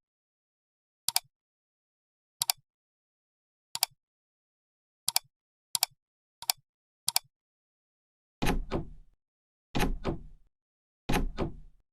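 A series of seven sharp clicks about a second apart, then three heavier thuds with a short ring-out about a second and a half apart, with dead silence between each.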